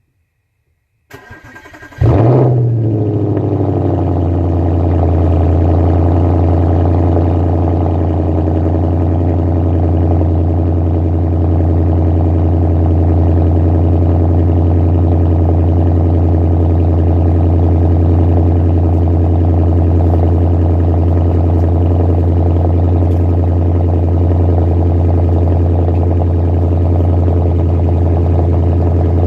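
2011 Audi S5 engine, mufflers removed, cold-started: the starter cranks for about a second, the engine catches with a brief rev flare, then settles into a loud, steady cold idle.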